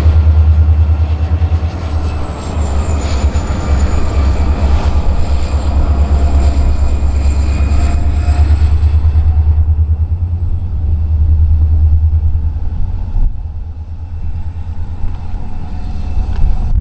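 Diesel locomotive engines running under load, a loud, deep throb with a fast pulse and rumble. A faint steady high whine sits above it, and the upper sounds thin out about ten seconds in.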